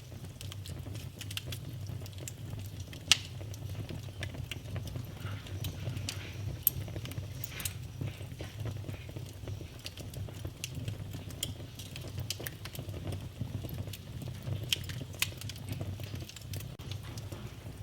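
Fireplace fire burning with a steady low rumble and continuous irregular crackling, with two sharper pops about three and seven seconds in.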